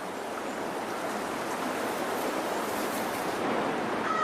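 Steady rushing of a salmon creek's running water.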